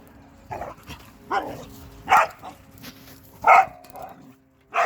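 Dog barking, about five short barks spaced roughly a second apart.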